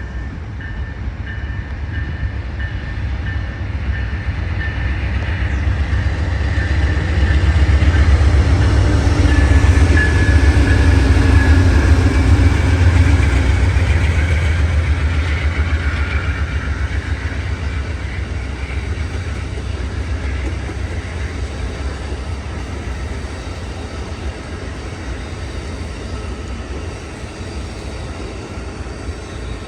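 A train passing: its low rumble builds to its loudest about ten seconds in, then fades slowly as it moves away.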